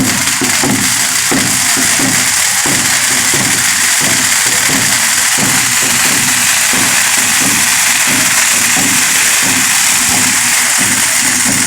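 Congada percussion playing a steady rhythm: drums striking several times a second under a dense, continuous rattle of shakers and tambourines.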